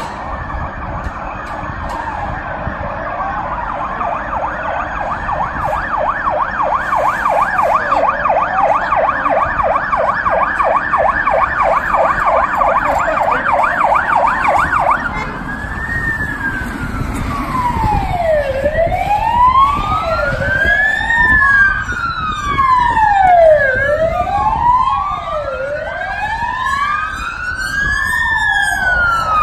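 Several police sirens from a passing convoy, sounding together over vehicle road noise: overlapping fast yelp sweeps for the first half, then slow rising-and-falling wails, each about two to three seconds long, from at least two sirens out of step.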